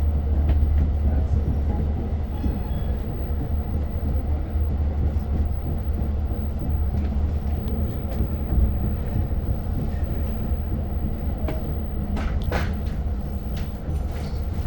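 Long Island Rail Road passenger train rolling along, heard from inside the car as a steady low rumble with light rattles. A short squeal, likely from the wheels, comes near the end.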